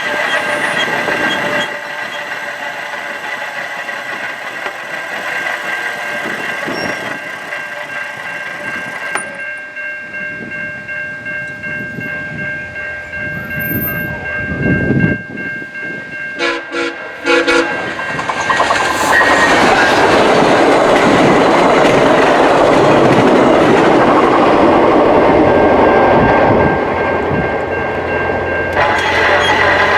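A train at a level crossing: short horn blasts a little past halfway, then the train rolls past loudly with the clatter of its wheels over the rails for most of the rest.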